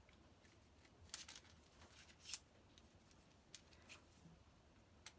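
Faint, scattered clicks and light clinks of small hard parts being handled as a new kiln thermocouple is readied for fitting, the sharpest click a little after two seconds.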